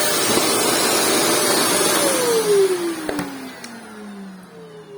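Vacuum cleaner running with a loud, steady rushing sound, then switched off about two seconds in. Its motor's whine falls in pitch as it spins down, with a click about three seconds in.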